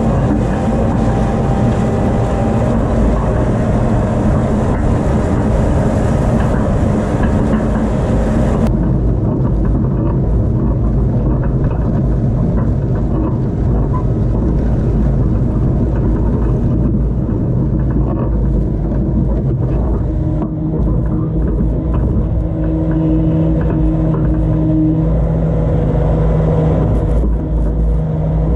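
Tractor engine running steadily under load while pulling a disc harrow. About nine seconds in the sound turns duller.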